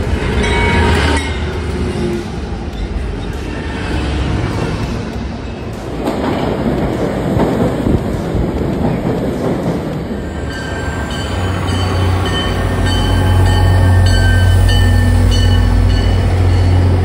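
Trains in short takes: a BNSF diesel freight locomotive coming in, then a subway train rushing past, then a diesel commuter-rail locomotive with its engine running in a steady low hum.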